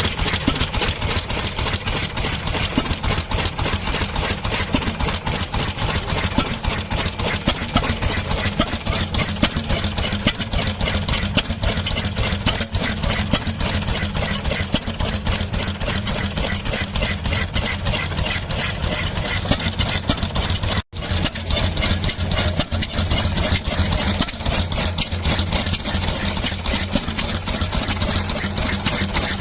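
Vintage Sarin petrol stationary engine running steadily and evenly with a rapid train of firing beats, running nicely. The sound drops out for a split second about two-thirds of the way through.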